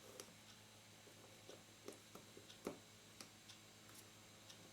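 Faint, irregular small clicks from the Canon FD 50mm f/1.8 lens being handled while its aperture mechanism is tested, over a low steady hum.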